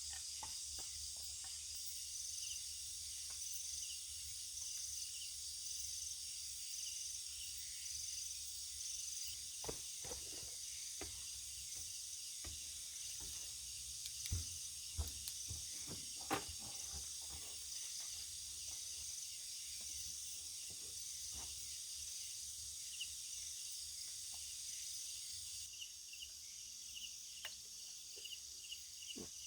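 Dusk chorus of insects, crickets among them, chirring steadily in a high shrill band with an even pulsing, with a few short knocks and clicks in the middle.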